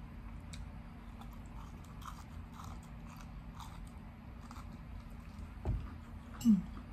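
Close-up eating sounds: chewing and biting of rice noodles and raw leafy greens, with small wet mouth clicks and crunches. A soft knock comes just before the end, then a short, louder mouth sound.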